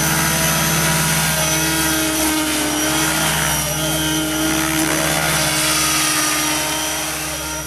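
Helicopter flying, a loud steady rotor and engine sound with a high whine; its pitch shifts slightly a couple of times.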